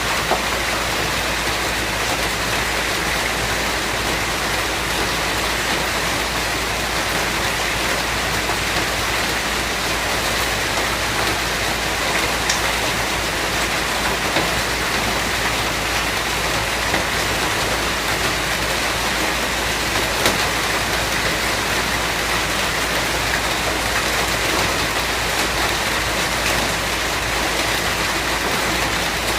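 Steady rain falling, a dense even hiss with a few sharper drops landing here and there.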